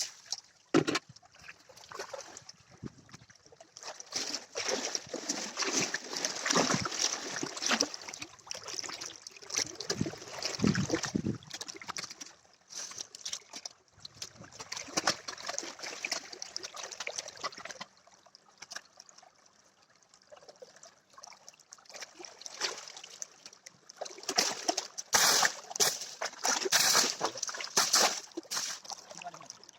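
Water splashing and sloshing in irregular bouts as a tractor is washed in a river, with a quieter spell about two-thirds of the way through and heavier splashing near the end.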